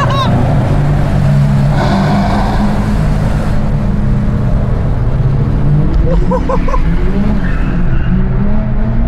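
Car engine running steadily under way with road noise, heard from inside a moving car. A few short high chirps come about six to seven seconds in.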